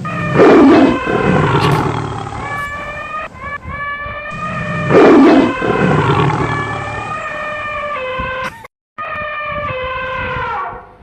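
A large animal's roar sound effect, heard twice about four and a half seconds apart, each trailing into a long, steady-pitched drawn-out call.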